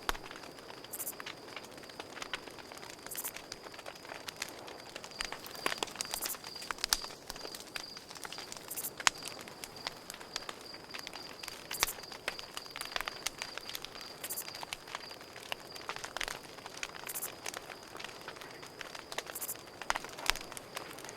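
Campfire crackling, with irregular sharp pops and snaps, over a cricket chirping steadily in a high, pulsing trill.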